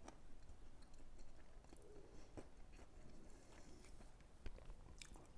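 A person chewing food faintly, with a few small scattered clicks.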